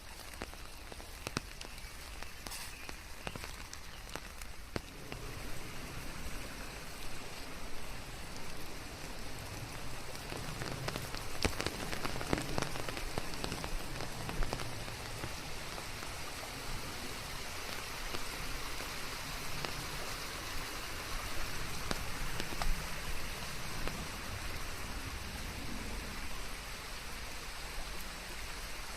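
Steady rain falling, with separate drops ticking through the hiss; it grows a little heavier about five seconds in.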